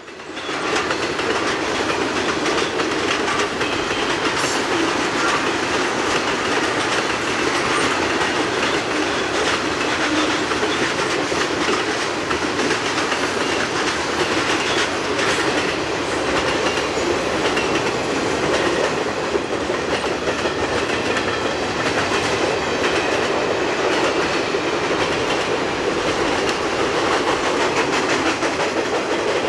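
Freight train rolling past at steady speed, a continuous rumble with the wheels clicking over rail joints throughout.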